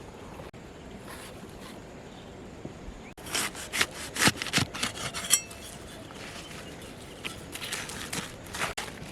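A knife working on a wooden chopping board: a run of quick scraping and cutting strokes starting about three seconds in, then another run near the end.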